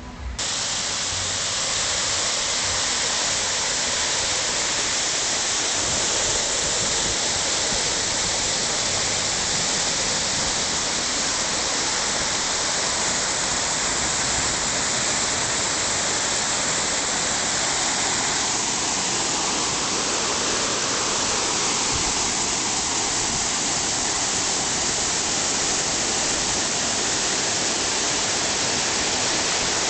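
Loud, steady rush of falling or flowing water, cutting in suddenly at the start and holding even throughout.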